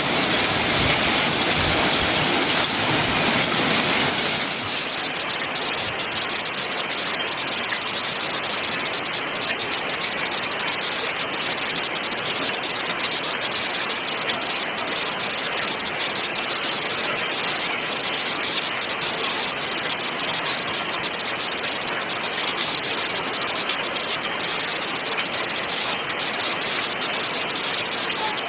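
Heavy rain pelting a corrugated metal roof, then, after about four and a half seconds, a slightly quieter steady downpour with water pouring off a roof edge and out of a gutter spout.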